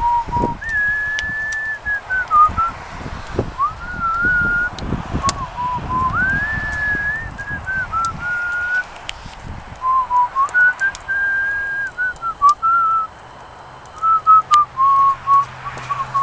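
A person whistling a slow tune in long held notes that slide up and down between pitches, with scattered light clicks and knocks.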